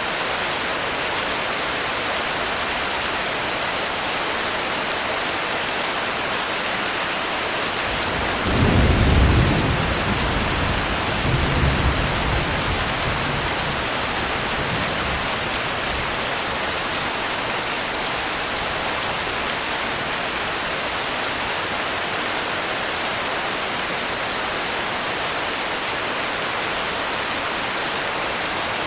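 Steady rain, a dense even hiss, with a low roll of thunder about a third of the way in that swells twice and dies away over several seconds.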